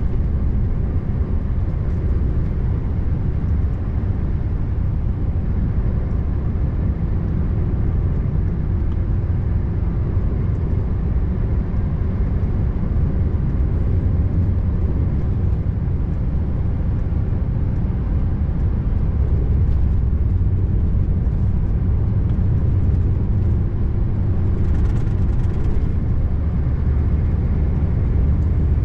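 Scania R590 truck's 16-litre V8 engine running steadily on the road, a continuous low drone mixed with road noise.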